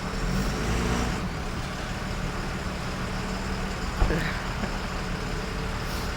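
A vehicle engine running steadily at low revs, with a single short knock about four seconds in.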